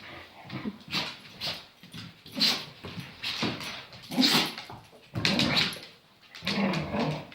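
A dog making a string of short play vocalizations, whines and grumbles, roughly one every second.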